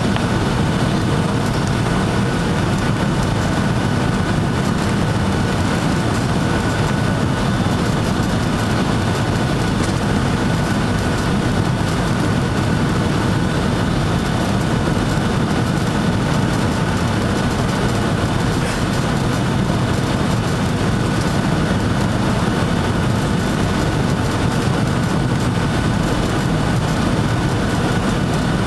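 Boeing 757-200 engine and airflow noise heard inside the passenger cabin: a steady low rumble with a faint, steady high tone above it.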